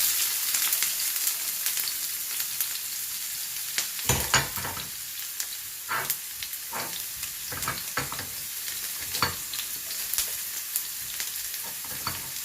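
Chopped onion dropped into hot oil with browned garlic, sizzling loudly the instant it hits the pan and then frying steadily. A utensil scrapes and knocks against the pan now and then as it is stirred.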